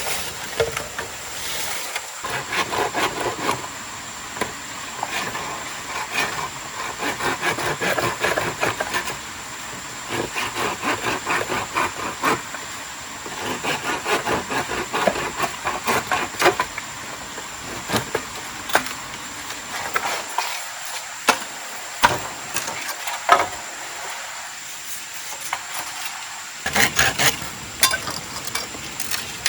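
Hand work on wood or dry plant material: runs of quick scraping and crackling strokes, several a second, with short pauses between the runs.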